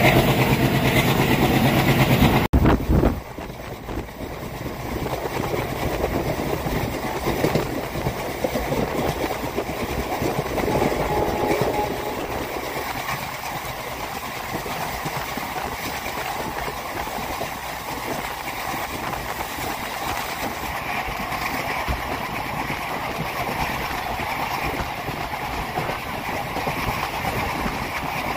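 Passenger train's coaches running on the track, wheels rolling on the rails with steady running noise. A louder passage with a steady low drone cuts off abruptly about two and a half seconds in, and the quieter, even rolling noise carries on.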